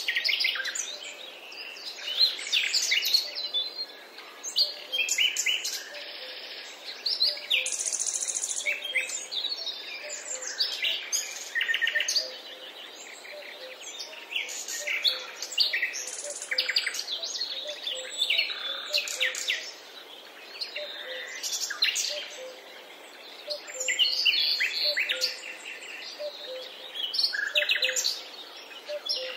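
A chorus of songbirds singing: many short high chirps and trills overlapping one another, with faint low calls repeating beneath.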